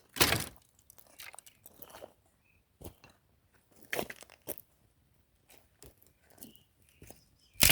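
Irregular crunching and cracking of dry wood and brush: sharp, uneven snaps, loudest just after the start and again at the end.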